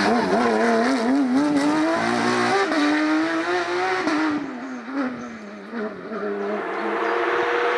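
Porsche 992 Rally GT's naturally aspirated flat-six at high revs, its pitch wavering quickly up and down as the throttle is worked. About four seconds in the sound drops away and the pitch falls, then the engine note comes back and climbs steadily near the end.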